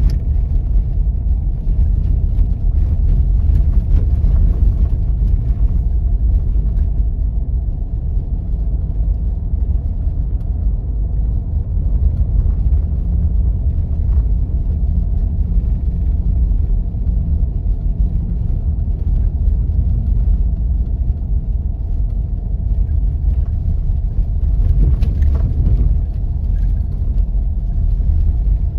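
A 4x4 Jeep driving on snow-covered roads: a steady low rumble of engine and tyres.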